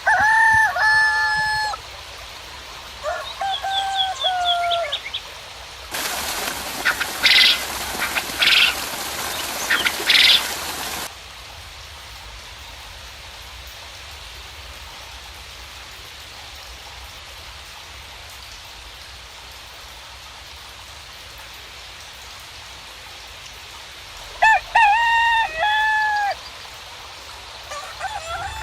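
Roosters crowing three times, near the start, a few seconds in and near the end, over a steady hiss of light rain. For about five seconds in the first half a much louder hiss covers everything, with a few short calls cutting through it.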